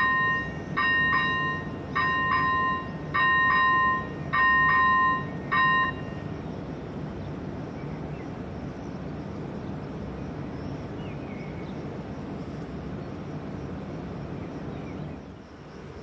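Electronic warning bell of a Czech level crossing, ringing a repeated chime about once a second and stopping about six seconds in. Under it a train runs past with a steady low rumble that drops away near the end.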